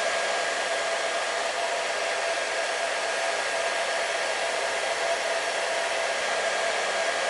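Hair dryer running steadily: an even rushing blow of air over a constant motor hum, with no change in speed.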